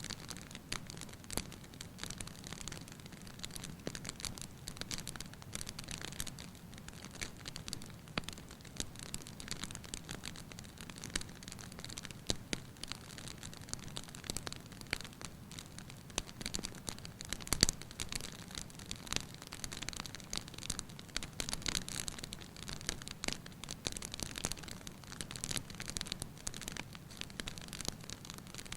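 Wood fire crackling in a fireplace: a continuous stream of irregular pops and snaps over a soft low rumble of the flames, with one louder pop a little past halfway.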